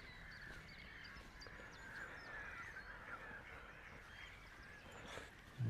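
A faint chorus of many waterbirds calling and chattering together, a crowd of overlapping calls. A short low thump comes near the end.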